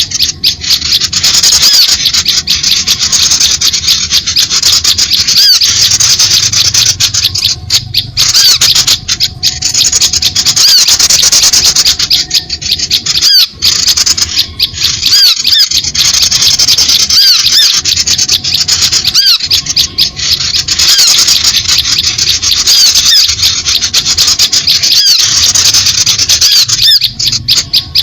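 Dense chatter of many small birds calling at once: high-pitched chirps and squeaks pile over one another without a break. It is a bird-lure recording of a noisy small-bird flock, played to draw small birds in.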